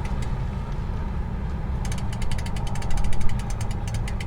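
Ratchet clicking fast and evenly, about ten clicks a second, starting about two seconds in, typical of a boat trailer winch being cranked. Under it runs the steady low rumble of an idling engine.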